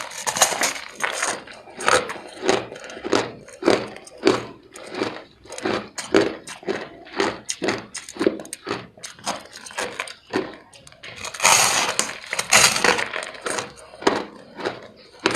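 Ice being crunched between the teeth: sharp crunches about twice a second, with a longer, louder run of crunching about three-quarters of the way through.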